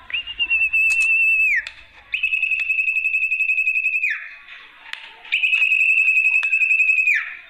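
Lure call for the sertu (zepo) bird: three long, steady whistled notes with a slight waver, each about one and a half to two seconds long and ending in a quick downward slide.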